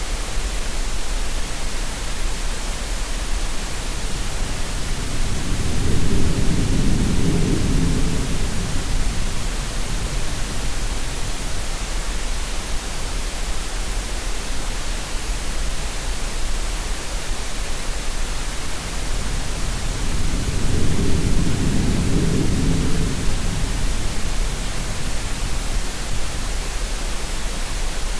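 Steady green-noise hiss mixed with sea sounds: two slow, deep swells of surging water rise and fade, one about five seconds in and another about twenty seconds in.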